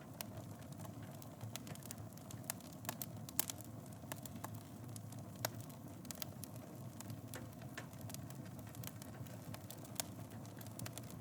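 Fire crackling in a fireplace: a steady low rumble of flames with frequent sharp pops and snaps, a few of them louder than the rest.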